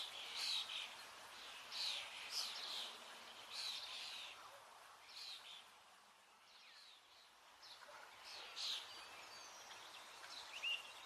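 Small birds chirping: a quick run of short, high chirps that thins out for a couple of seconds past the middle, then a few more chirps near the end.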